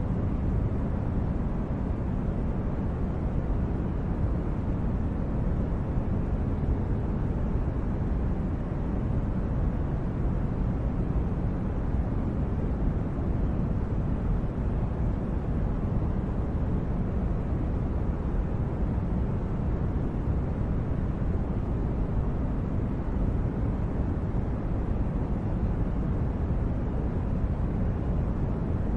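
Steady, deep background noise that never changes: an even rumble with most of its weight in the low end, like the brown noise played under sleep videos.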